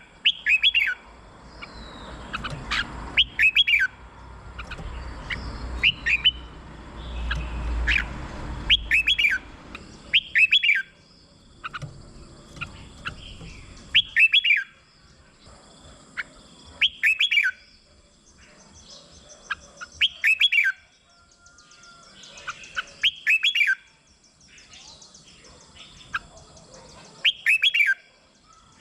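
Red-whiskered bulbul singing short, loud, sweeping phrases, repeated about every three seconds. A low rumble runs under the first ten seconds or so.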